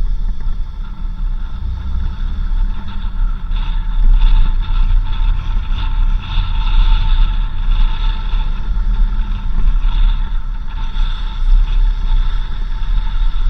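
Off-road vehicle driving on a dirt road: a loud, uneven low rumble, with steady higher tones over it that are strongest through the middle.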